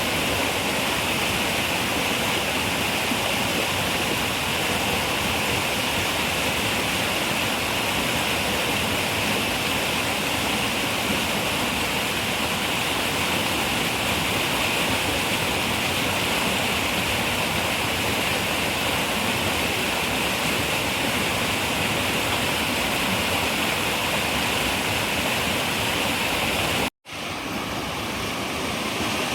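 Running river water flowing steadily. Near the end the sound cuts out for an instant and fades back in, like a splice in a looped recording.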